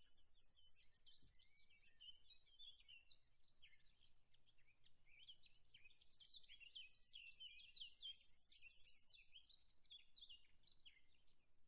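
Faint summer countryside ambience: many small birds chirping and twittering over a steady high-pitched drone of insects, which turns into a rapid pulsing trill twice.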